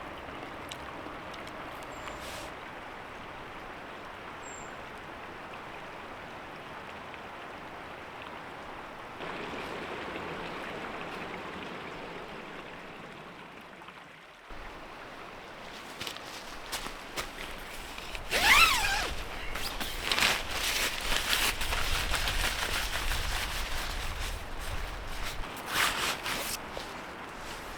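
Steady creek and outdoor ambience for the first half. After a brief drop, a busy run of rustling, clicks and knocks from gear being handled, with one short squeak about halfway through.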